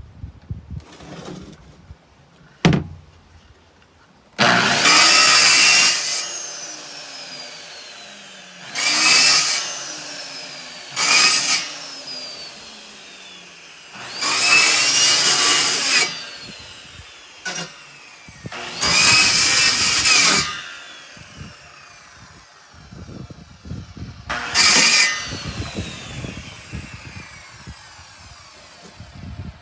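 A handheld power tool run in about six short bursts. After each burst its motor winds down with a falling whine. A sharp knock comes a few seconds before the first burst.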